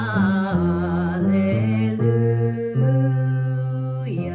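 A keyboard plays the hymn's bass line in two octaves as a run of sustained low notes, changing pitch every half second or so and ending on a longer held note. A singing voice with vibrato holds notes along with it.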